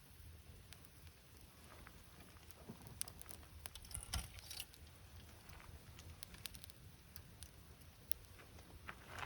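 Faint campfire of wood crackling, with scattered sharp snaps and a small cluster of them about four seconds in.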